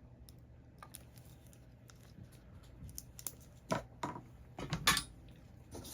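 Small scattered clicks and taps of hand tools and a flux applicator handled at a circuit board, with a few louder clicks between about four and five seconds in.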